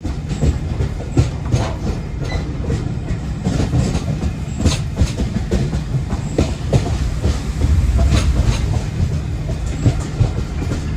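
Passenger train running on the track: a heavy, steady rumble with irregular clicks and clacks of the wheels over the rails.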